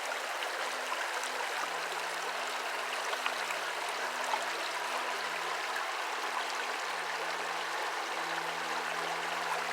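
Shallow stream babbling over rocks: a steady rush of running water with small splashes and gurgles. A faint steady low hum runs underneath.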